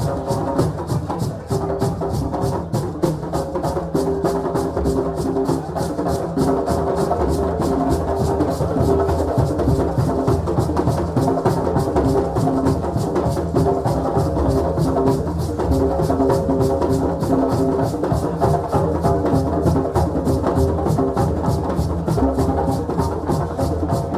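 West African drum ensemble playing a fast, dense rhythm of rapid strokes, with pitched tones sounding alongside.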